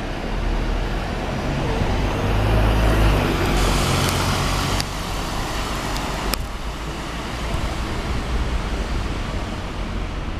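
Volvo B9TL double-decker bus's diesel engine running with a low rumble that swells a couple of seconds in. A hiss of air comes about three and a half seconds in, followed by two sharp clicks.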